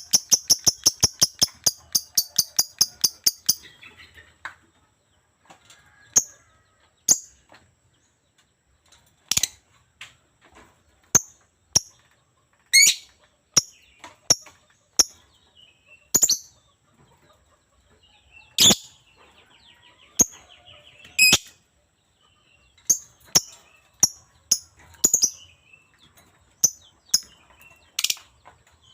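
Lovebird chirping: a fast run of sharp, shrill chirps for the first few seconds, then single piercing chirps about every second, some in quick pairs.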